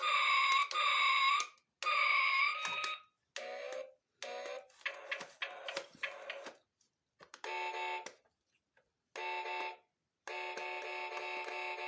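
Electronic alarm-like tones in a series of short bursts, each cut off abruptly with silence in between. The first bursts waver in pitch like a siren; the later ones are a steady, buzzy, pulsing beep.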